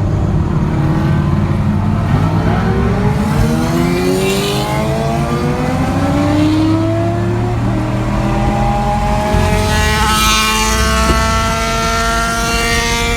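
Car engine under hard acceleration: its pitch climbs steadily through a long pull, then a second one a few seconds later.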